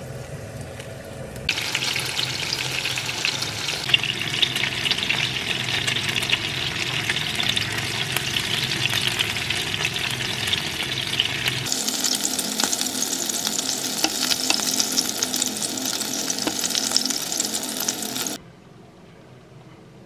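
Food sizzling in a frying pan; the first stretch is tocino (sweet cured Filipino pork) frying in oil. It is a steady sizzle with small crackles that switches abruptly to a brighter, hissier sizzle and then cuts off suddenly near the end.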